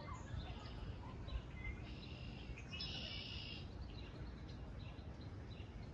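Several songbirds chirping and calling, with a buzzy trill lasting about a second a little under halfway through, over a steady low rumble.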